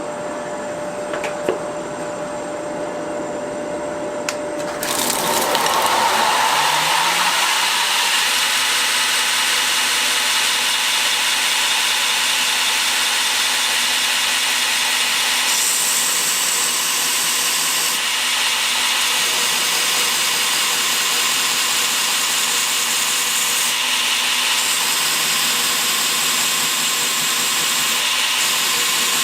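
A grinder running, then about five seconds in a knife's handle scales of desert ironwood with G10 liners are pressed to it, and a louder, steady grinding noise holds as the handle is ground to shape.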